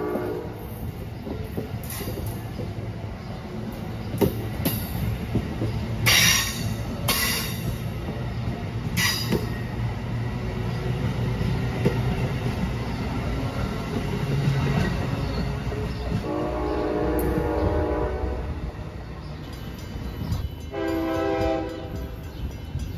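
Amtrak passenger train of stainless-steel Amfleet coaches rolling past with a steady low rumble of wheels on rail, with a few short hisses about six to nine seconds in. A train horn sounds twice: a long blast about two-thirds of the way through and a shorter one near the end.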